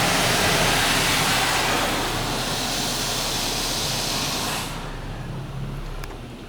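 Automatic car wash's water spray hitting the car's body, heard from inside the car as a loud, steady hiss that cuts off about four and a half seconds in, leaving a low rumble.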